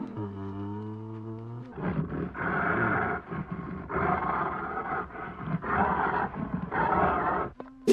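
A large animal roaring: a low drawn-out call, then about four rough roars in a row.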